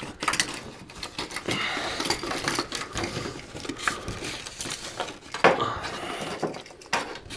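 Irregular clicks, rattles and rustling of cables and plugs being handled and fed through holes in a sauna's roof panel, with a sharper knock about five and a half seconds in.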